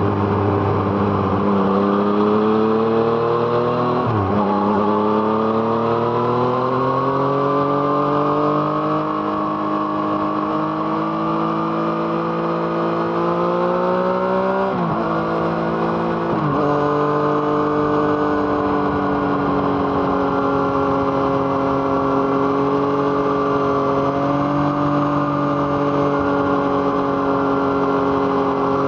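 Yamaha MT-09's three-cylinder engine through an aftermarket Arrow Thunder exhaust, the motorcycle accelerating with its pitch climbing. There are three quick upshifts, one about four seconds in and two close together about halfway through, before it settles into steady cruising.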